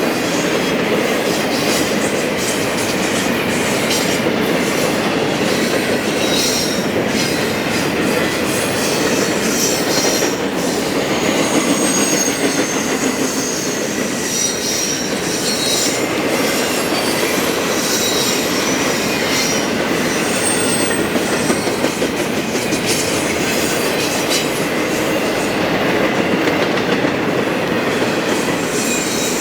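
Freight train cars rolling past, a steady rumble with rail-joint clicks and thin, high-pitched wheel squeals that come and go.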